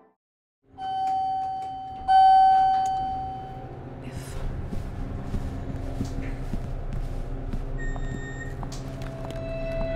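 Elevator chime: a ringing tone about a second in, then a second, louder tone about two seconds in that fades away. A steady low hum follows, with scattered small clicks and a short high beep near the end.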